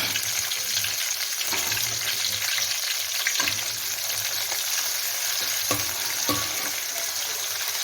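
Chopped onions frying in hot oil in a pan, sizzling steadily as they are stirred, with a few sharp knocks against the pan in the second half.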